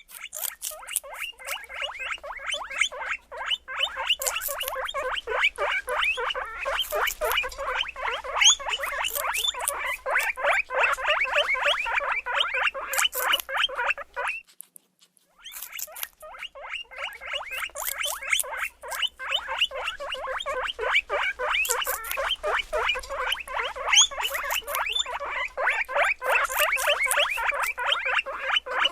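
Many animals squeaking in a fast, dense stream of short high squeaks, in two long runs broken by a pause of about a second midway.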